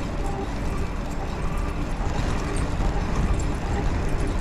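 Bicycle riding noise: steady rumble of wind on the microphone and tyres on the path, with a constant light rattling.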